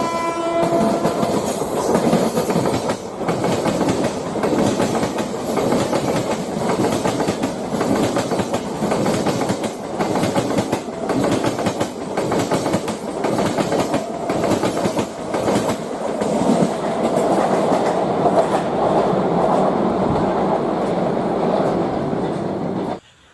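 A train passing close by, its wheels clattering rhythmically over the rail joints. The tail of a train horn sounds at the start and fades out about a second in. The sound cuts off suddenly near the end.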